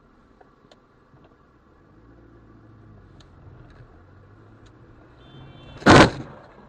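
A car engine running with a low steady hum, then about six seconds in a single sudden loud bang, the impact of a car collision.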